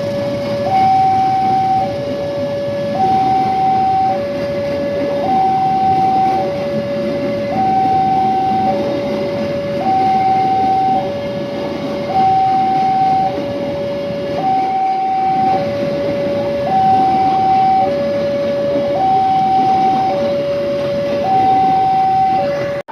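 Railway level-crossing warning alarm sounding two alternating electronic tones, high then low, each held about a second, repeating steadily over a constant rumbling noise.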